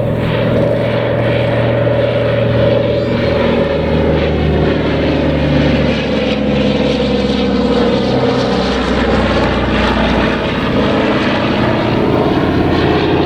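Propeller aircraft engine running as an aeroplane flies past, its note falling slowly through the first half and then levelling off.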